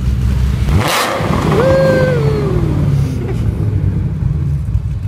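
Mazda CX-5 SUV engine running and being revved, with a steady low rumble. A sudden noisy burst comes just under a second in, and a short cry that rises and then falls in pitch follows about two seconds in.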